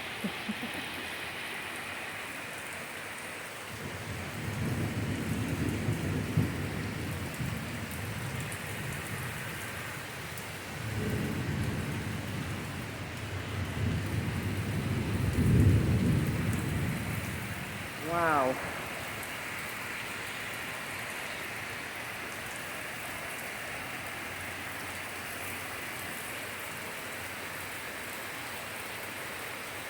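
Heavy rain pouring steadily during a thunderstorm, with two long rolls of low thunder rumbling through it. The second roll is the louder one and peaks about halfway through.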